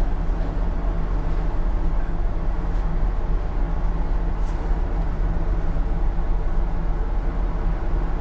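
Steady low rumble of a ship's machinery, with a deep, even hum.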